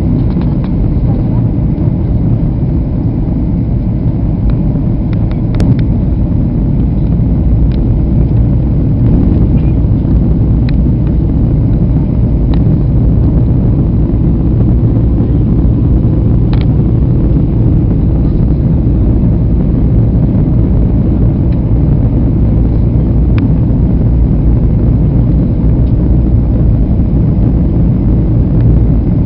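Steady, loud low rumble of a Lion Air airliner heard from inside the passenger cabin: engine and airflow noise, with a few faint clicks or rattles scattered through it.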